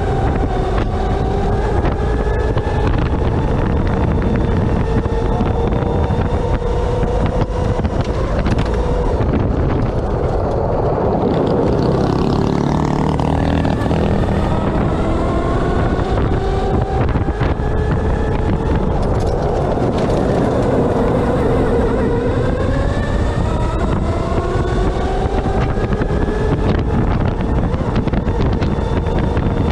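Electric off-road Baja buggy's motor whine, rising and falling again and again as it accelerates and slows through an autocross course, over a constant loud rumble and rattle from the rough ground.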